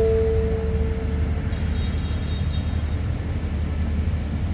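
A diesel passenger train standing at the platform, its engines idling with a steady low rumble. For the first second and a half, the last notes of a descending station chime ring out and fade.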